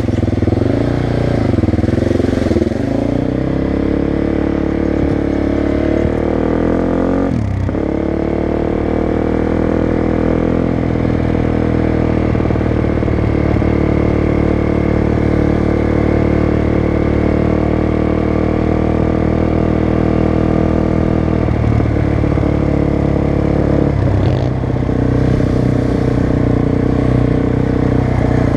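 Motocross race engines running steadily at a loud, even level. Their pitch shifts briefly about seven seconds in and again near the end.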